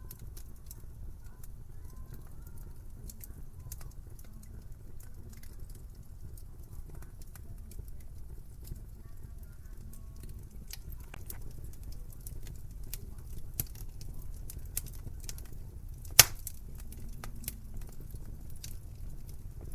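Wood fire crackling in a fireplace: irregular snaps and pops over a low rumble of burning flames, with one much louder pop well past halfway.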